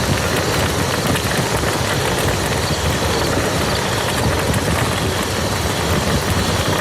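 Steady rain falling on a muddy field: a dense, even hiss of drops with a low rumble underneath.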